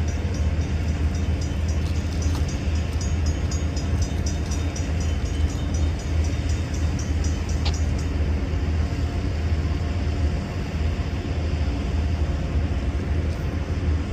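Distant approaching train: a steady low rumble. A light, fast high ticking runs through the first half and stops about eight seconds in.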